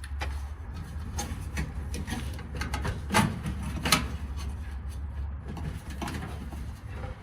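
Scattered clicks, knocks and scraping of metal dryer parts being handled and fitted by hand, with two sharper knocks about three and four seconds in, over a low steady hum.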